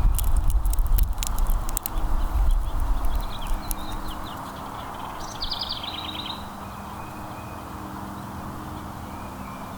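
Small songbird chirps and a short fast trill about five seconds in, over a steady outdoor background. The first three seconds hold a run of close sharp clicks over a loud low rumble.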